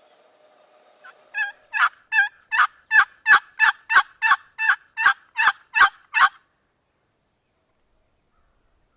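A run of about a dozen turkey yelps, evenly spaced at roughly three a second. They grow louder over the first second or two and stop abruptly about six seconds in.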